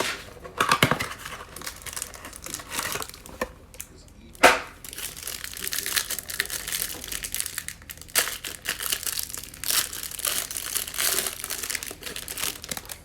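Plastic wrapping crinkling and cardboard tearing as a hanger box of trading cards is opened and handled, with one sharper, louder rip or snap about four and a half seconds in.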